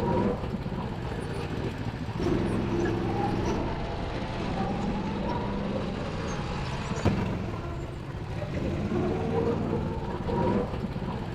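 Go-kart engines running and revving, their pitch rising and falling as the karts speed up and slow down. A single sharp click about seven seconds in.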